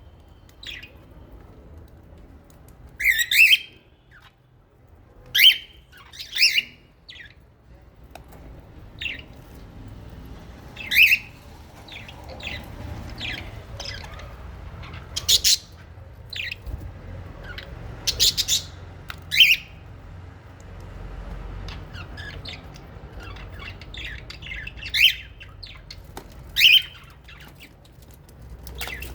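Lovebirds and budgies in an aviary calling: short shrill squawks and chirps, one every second or two, some much louder than the rest.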